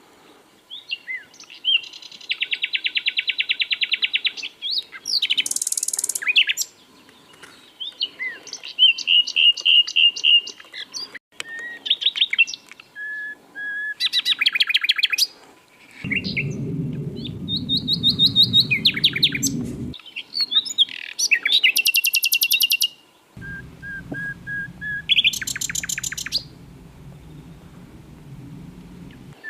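Common nightingale singing: a varied run of separate phrases of rapid trills, fast repeated notes and soft pure whistles, with short pauses between them. A low rumble sounds in the background twice, switching on and off abruptly.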